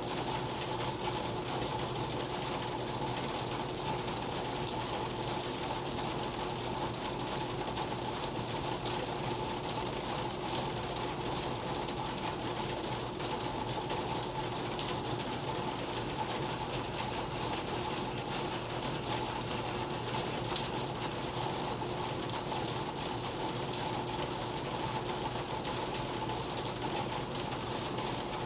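Steady rain with a dense, fast ticking of drops, at an even level throughout, and a faint steady hum underneath.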